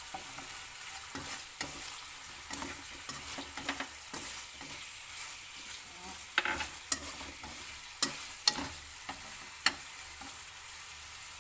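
Chicken wings sizzling in a fish-sauce glaze in a nonstick wok while being stirred and turned with chopsticks. The chopsticks click sharply against the pan several times in the second half.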